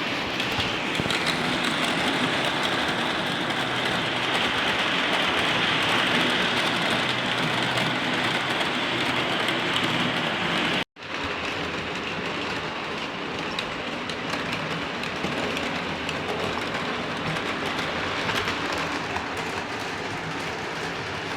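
O scale model train running on its track: a steady rolling rumble of wheels on rail with a faint motor hum. The sound drops out suddenly for a moment about halfway through, then carries on as before.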